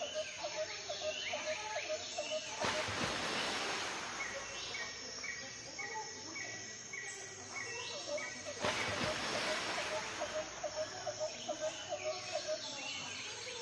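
Birds chirping in quick short repeated notes, one run of even notes about three a second. Twice, a little under 3 s in and near 9 s in, a rushing noise lasting about a second rises over the chirping.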